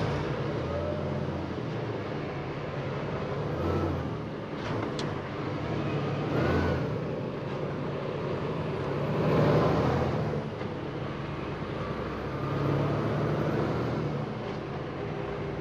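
Tractor-trailer on the move, heard from inside the cab: a steady low engine drone and road noise, with other traffic swelling past about four times.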